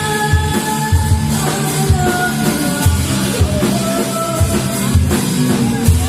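A song with a singing voice over drums and guitar, the kick drum keeping a steady beat.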